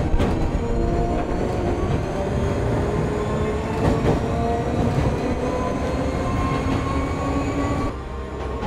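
Electric train running: a dense rumble of wheels on rail with a few knocks from the track, and a whine that slowly rises in pitch over it. It eases off slightly near the end.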